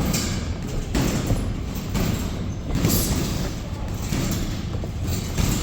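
Boxing sparring: a few dull thuds of gloved punches and feet on the ring canvas over a steady rumble of gym noise.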